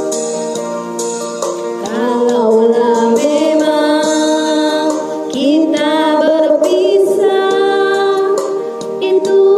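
Music with a singing voice: sustained sung notes with pitch slides and wavering.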